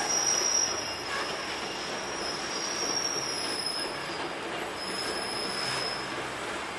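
Freight train rolling past at slow speed, its wheels squealing on the rails in several high, steady tones that come and go over a continuous rumble.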